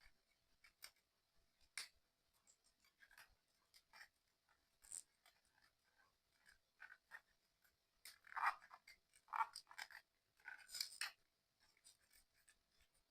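Faint, scattered clicks, taps and scratches of small puzzle-kit parts being handled and fitted by hand, with a denser, louder flurry of them a little past the middle.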